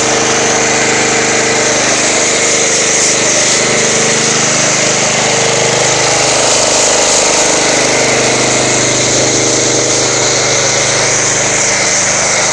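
Pressure washer running steadily as it drives a foam cannon, with the hiss of the spray. Part of its hum slides lower about halfway through.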